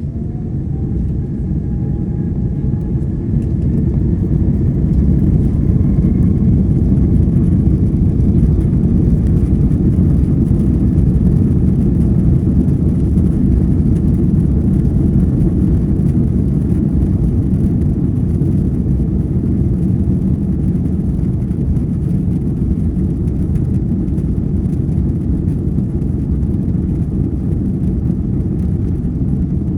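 Airbus A330-200 jet engines heard from inside the cabin, a loud low rumble that builds over the first few seconds while a faint engine tone rises in pitch, then holds steady. The engines are powering up, typical of the takeoff run.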